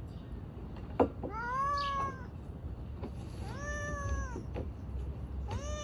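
Stray cat meowing three times, each meow about a second long and slightly arching in pitch, with a single sharp knock just before the first.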